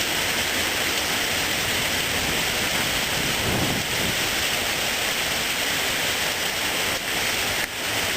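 Heavy rain from a tropical storm rain band pouring down steadily, an even rushing hiss.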